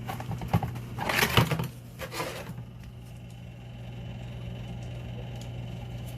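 Hand-tool work on a pipe fitting: a few sharp clicks, then two short scraping noises about one and two seconds in, over a steady low hum.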